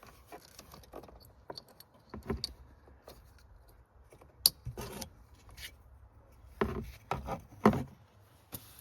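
Hand work on a car speaker mount: scattered clicks, taps and small rattles of screws, plastic trim and the speaker being handled, with two sharper knocks, one about halfway through and one near the end.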